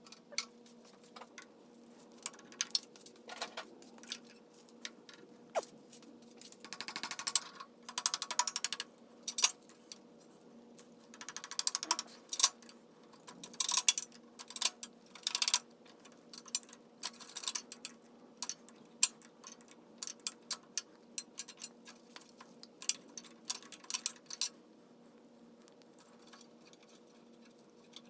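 Hand tools clicking and clinking on the metal parts of a VW 1600 engine during disassembly, with two bursts of rapid ratchet-like clicking, over a faint steady hum.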